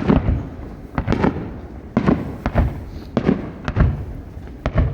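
Aerial fireworks shells bursting in quick succession, a sharp bang every half second to a second, each followed by a rolling rumble.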